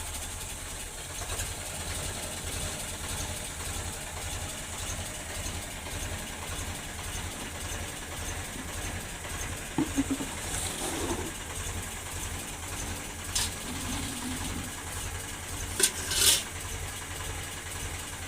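Tractor's diesel engine idling with an even low throb, while a few short sharp knocks or clicks sound over it, the loudest about two-thirds of the way through.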